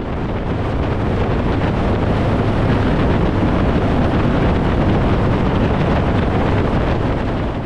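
Heavy wind rush over the microphone of a Harley-Davidson Fat Boy motorcycle riding at motorway speed, with the bike's engine and road noise buried underneath. It swells a little over the first second or two, then holds steady.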